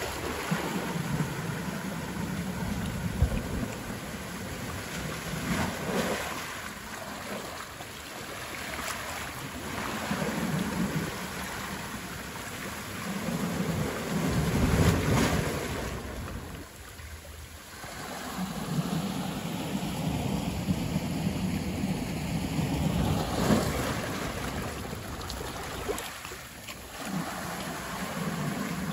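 Wind and sea noise outdoors, a rushing hiss with a low rumble that swells and eases every few seconds, with a few sharper gusts.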